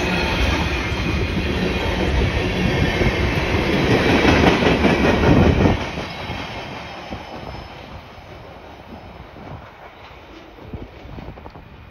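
Loaded freight cars rolling past close by: a steady rumble of steel wheels on rail with rapid clattering. It is loudest until about six seconds in, then drops away to a quieter clatter as the train recedes.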